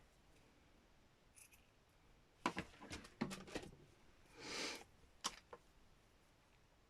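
Small handling noises of craft materials: a quick run of clicks and taps about two and a half seconds in, a short rustle shortly after four and a half seconds, then one sharp click.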